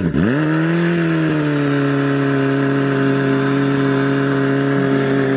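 Chevrolet LS-series V8 engine with an aggressive aftermarket cam: a quick dip in revs at the start, then the revs climb and are held steady at a raised engine speed.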